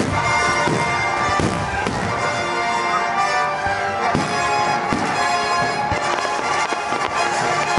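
Aerial fireworks bursting overhead, several sharp bangs spaced irregularly, over music playing.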